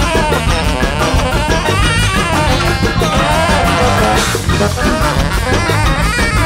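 Large jazz band playing loud, busy music live, with guitar, drum kit and horns together over a steady beat.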